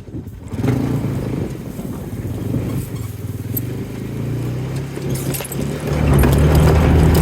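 A vehicle engine running steadily, getting louder about six seconds in and then holding at the higher level.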